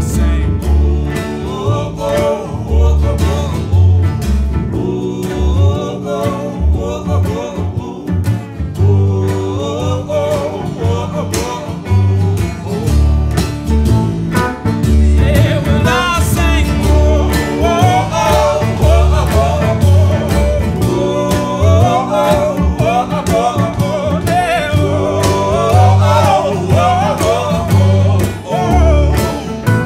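Live band playing country-style music: guitar over a rhythmic bass line, with a wavering lead melody that grows stronger about halfway through.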